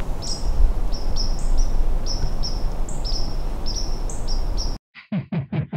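A bird repeating short, high chirps, about three a second, over a steady low background rumble. Near the end this cuts off abruptly and pulsing intro music begins.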